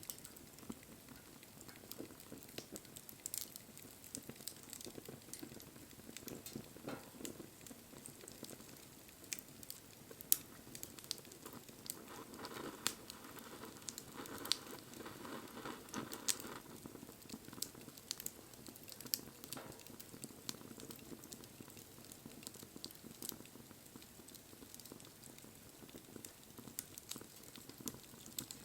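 Wood fire burning, crackling with frequent sharp pops over a low hiss of flames; a little busier about halfway through.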